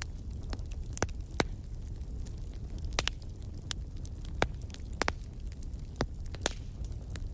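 Wood fire burning in a fireplace: a low steady rumble of the flames with irregular sharp crackles and pops, about a dozen, the loudest around a second and a half, three and four and a half seconds in.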